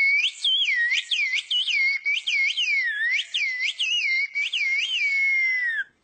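A person whistling Turkish whistled language (kuş dili, 'bird language'): one continuous high whistle with quick swoops up and down, about two a second, ending in a falling glide just before the end.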